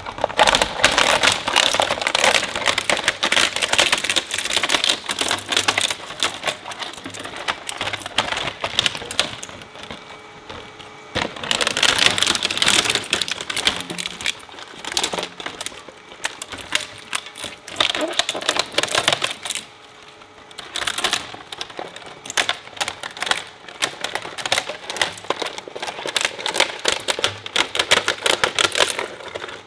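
Industrial shredder chewing up plastic toys: a dense run of rapid cracking and snapping as the pieces break between the cutters. It comes in bursts, easing off briefly about a third of the way in and again about two-thirds in.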